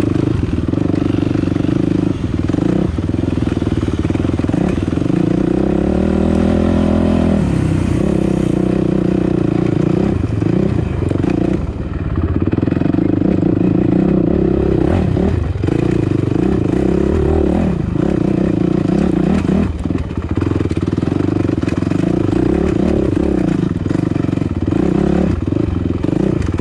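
Dirt bike engine running under constantly changing throttle, the pitch rising and falling as it is blipped and eased off while climbing a rocky trail. Short clattering knocks from the bike over rocks run through it.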